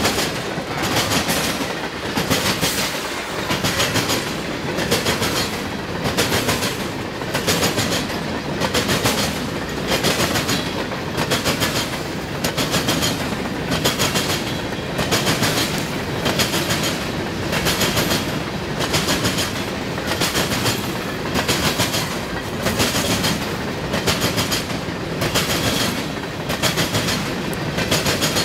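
Freight train of covered hopper cars rolling past at speed, its wheels clicking over the rail joints in a steady clickety-clack, about one group of clicks a second over a continuous rumble.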